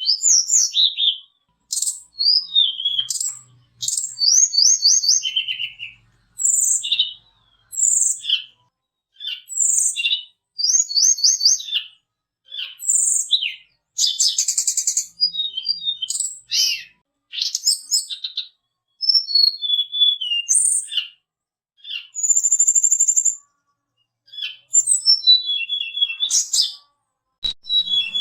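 A tledekan gunung (sulingan, the little pied flycatcher) singing in bursts of high, thin whistled phrases and quick trills, each a second or so long, with short silent gaps between them.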